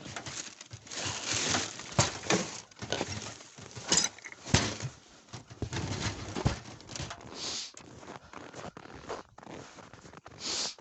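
Footsteps crunching in deep snow at an uneven pace, with a few sharp knocks around two, four and six seconds in.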